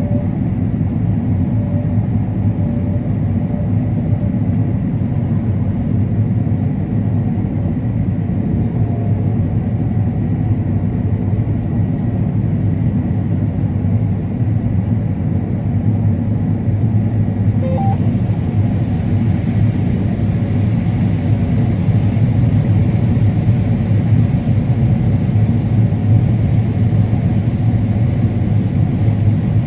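Combine harvester running steadily while harvesting corn: a constant low drone.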